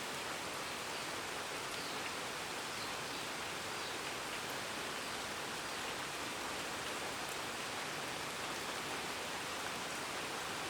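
Steady, even rushing hiss of outdoor ambience, with no distinct calls or knocks standing out.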